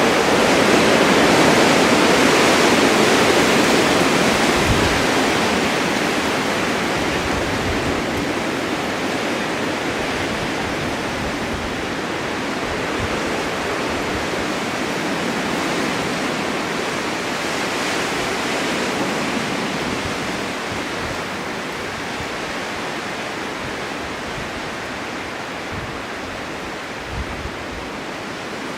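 Blizzard wind driving snow: a dense, steady rushing that swells in a strong gust about a second in and then slowly eases. A few low bumps of wind buffeting the microphone come through.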